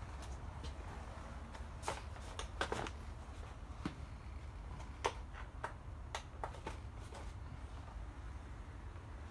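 Scattered light clicks and taps over a low steady hum, with a cluster about two to three seconds in and another about five to seven seconds in.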